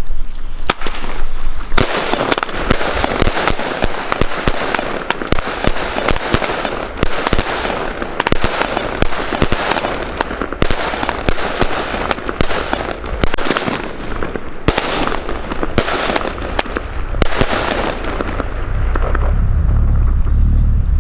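Salute firework batteries firing a rapid barrage of sharp aerial bangs, a few at first and then a dense run for about sixteen seconds, thinning out near the end. A low rumble of wind on the microphone builds as the bangs die away.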